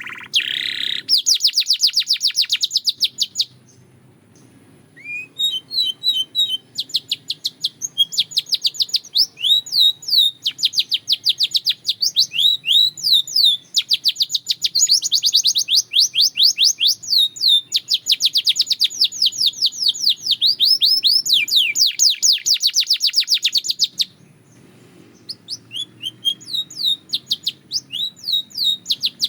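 Belgian canary singing in long, fast trills of quick downward-sweeping notes, with short breaks about four seconds in and again near the end.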